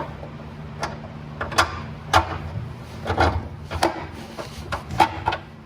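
Irregular knocks and clinks of hand tools and parts as suspension bolts are fitted to a car's control arm, about ten sharp hits at uneven spacing over a steady low hum.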